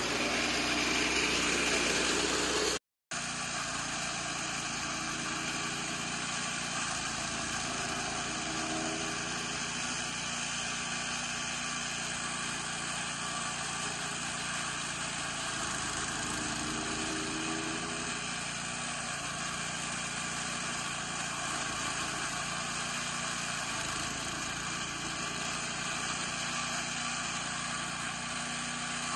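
Chaff cutter machine running steadily, a continuous mechanical drone. The sound drops out for an instant about three seconds in and then carries on slightly quieter.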